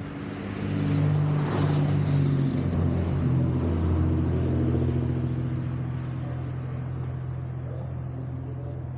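A motor vehicle's engine running, growing louder about a second in and then slowly easing off.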